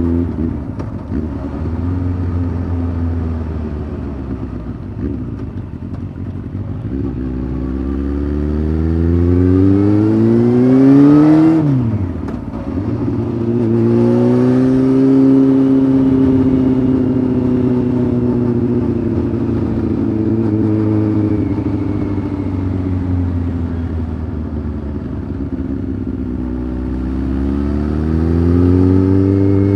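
Honda CBF 600's inline-four engine through an aftermarket titanium sport exhaust, ridden at steady low revs, then revving up under acceleration for about four seconds. About twelve seconds in the revs drop sharply. The engine then holds a steady cruise that slowly eases off, and revs up again near the end.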